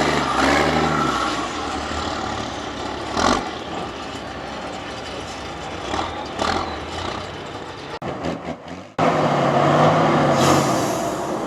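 Off-road trial truck's engine running hard, its pitch rising and falling, with a few sharp knocks. The sound drops away briefly about eight seconds in, then comes back loud.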